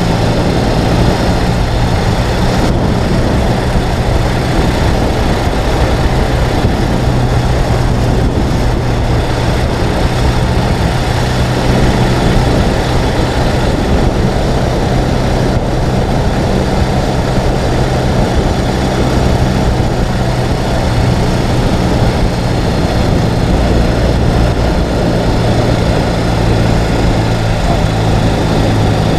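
Ural sidecar motorcycle's flat-twin engine running at a steady pace, pitch and loudness unchanging, under a dense steady rush of wind and road noise.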